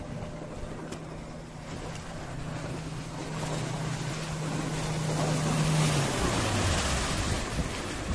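An engine passing close by: a steady hum growing louder over several seconds with rising hiss, its pitch dropping sharply about six seconds in as it goes past.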